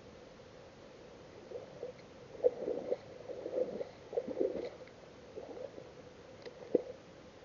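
Homemade rubber frog lure being worked across the water surface: a run of irregular gurgling plops and small splashes, with two sharper plops about two and a half seconds in and near the end.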